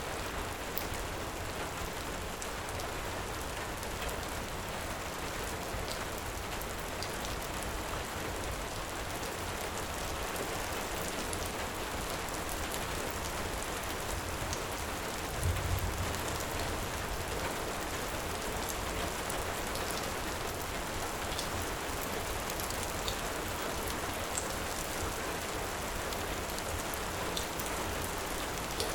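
Heavy rain falling steadily, a dense even hiss, with scattered sharp pops and clicks like a crackling wood fire. A brief low thump about halfway through.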